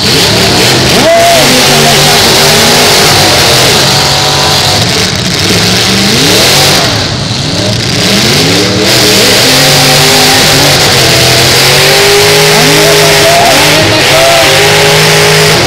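Engines of several demolition-derby cars running and revving hard, very loud, their pitch rising and falling again and again over a steady roar of exhaust noise.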